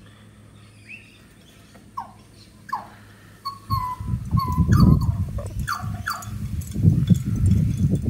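Birds calling, short whistled falling notes followed by a quick run of notes, with a loud, low rumbling noise that starts about halfway through and stays on.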